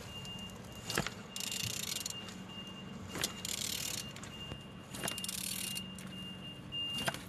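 A removed Mercedes M271 four-cylinder engine being turned over by hand with a tool on the crankshaft. Metal clicks and rasping, scraping strokes come about every two seconds as the engine turns freely.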